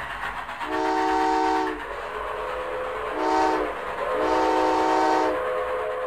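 Train horn sounding three chord blasts: long, short, then long, over a steady running hum.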